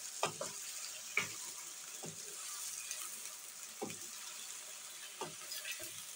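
Thin potato slices sizzling in hot oil in a wok, stirred with a wooden spatula, with a steady hiss and about six short knocks and scrapes of the spatula against the pan.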